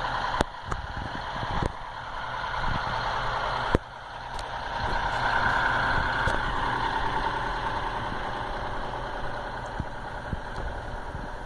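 A vehicle engine idling steadily, with a few sharp clicks in the first few seconds.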